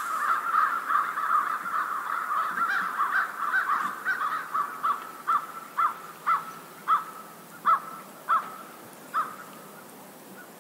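Birds calling: many short calls overlap at first, then single calls come about twice a second, spreading out and stopping about nine seconds in.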